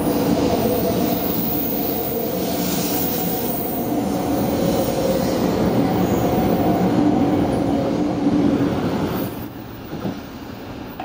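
500 series Shinkansen train moving alongside a station platform at close range: loud rolling noise with a steady multi-tone hum from its traction motors. The sound drops sharply about nine seconds in and stays much quieter.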